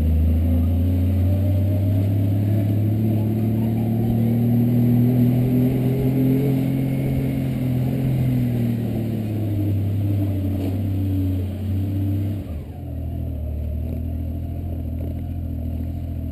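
1990 Honda GL1500 SE Gold Wing's flat-six engine running steadily as the motorcycle rolls at low speed. About twelve seconds in the revs drop as the bike slows, and the engine settles to a lower steady note.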